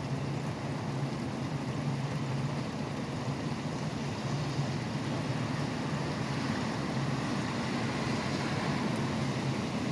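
Steady rain mixed with continuous highway traffic: a low rumble of passing vehicles under an even hiss of rain and wet tyres, swelling slightly in the second half.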